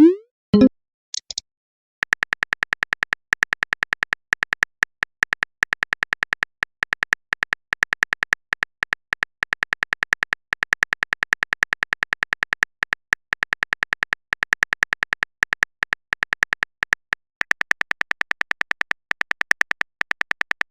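Simulated phone keyboard typing sound from a texting-story app: rapid even clicks, about six a second, with a short pause early on. A short rising pop, the message sound, comes at the very start.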